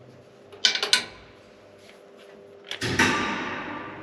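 Two sharp metallic clicks, then a burst of sliding mechanical noise that fades out: the elevator cab's door-drive mechanism moving the doors.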